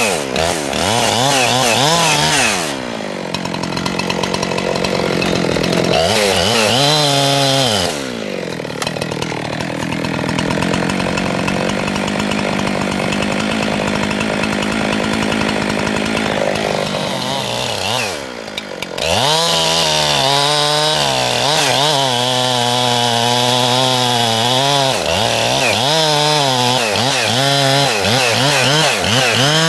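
Chainsaw engine running at high revs with a wavering pitch, typical of cutting into wood. It drops back to a lower, steady idle twice, briefly around three seconds in and for longer from about eight to seventeen seconds, then goes back to full throttle near the end.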